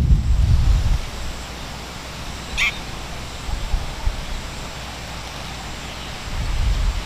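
A single short bird call about two and a half seconds in. A low rumble fades out about a second in and returns near the end.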